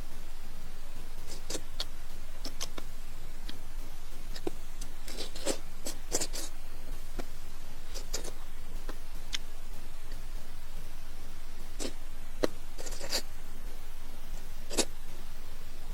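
Close-miked eating of deep-fried eggplant fritters: irregular crisp crunches, chewing and mouth clicks over a steady hiss.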